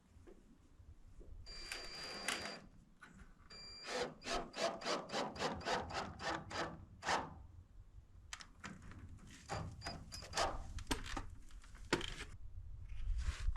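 Power drill running in two short bursts with a thin high whine, then a quick even series of about a dozen knocks, about four a second, followed by scattered clicks and taps of hand work on the plastic roof panels.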